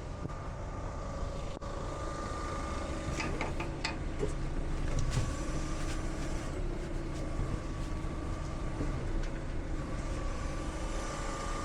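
Vehicle engine running steadily, with a few light clinks and knocks about three to four seconds in.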